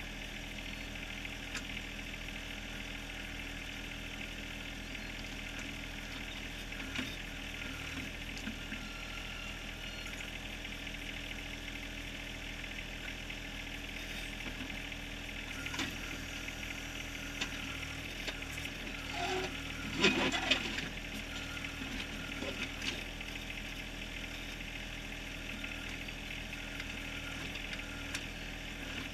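John Deere 1023R compact tractor's three-cylinder diesel running steadily while the backhoe digs, with scattered knocks and clanks of the bucket on rock and a louder clatter about two-thirds of the way through.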